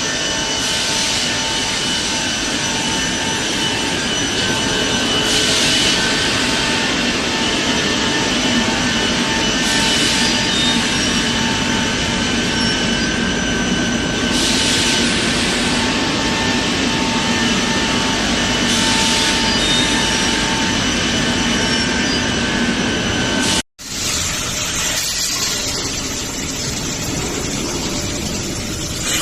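Factory machinery of a fibre cement board production line running steadily: a continuous hum with a few steady whining tones, and a hiss that swells about every four and a half seconds in a regular cycle. Near the end the sound drops out for an instant and gives way to a different, slightly quieter machine noise.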